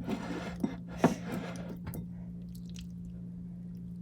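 Sticky homemade slime squelching as it is squeezed and worked by hand for about two seconds, with a sharper click about a second in; after that only a steady low hum remains.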